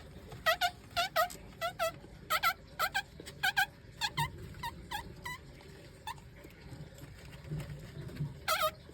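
A bird calling over and over in short, pitched notes, often in pairs, a few a second, then thinning to single calls.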